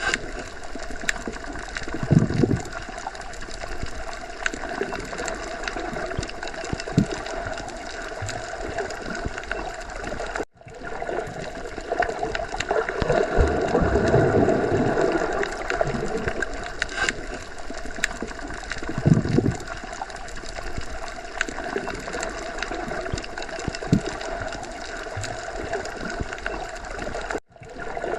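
Underwater sea ambience: a steady muffled rush of water with gurgling and occasional low swells. The sound cuts out for an instant twice, about ten seconds in and near the end.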